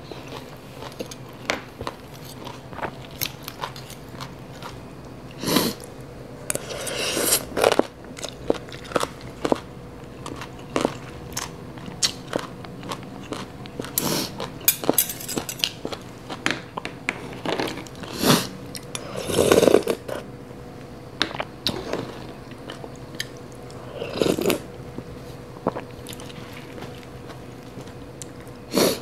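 Crunchy chewing and biting of papaya salad close to the microphone: many small crisp crunches, with a few louder, longer crunching bouts, and occasional clicks and scrapes of a fork and spoon on the food trays.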